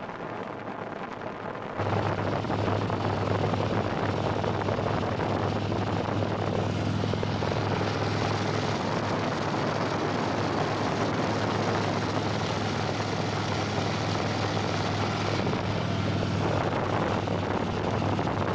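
Motorcycle engine running at a steady speed with a constant low drone, under heavy wind rush. It jumps louder about two seconds in, then holds steady.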